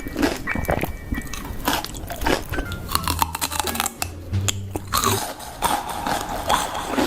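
Close-miked crunchy biting and chewing, a rapid run of sharp crackles, with music playing underneath.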